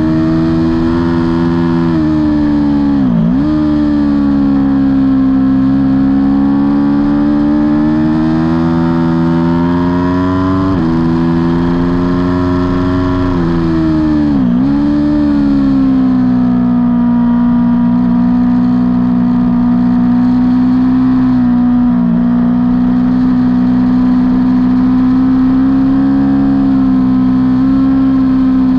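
Aprilia Tuono V4's V4 engine, heard on board at race pace. The revs climb slowly and fall abruptly twice at gear changes, and twice more they dip sharply and come straight back up.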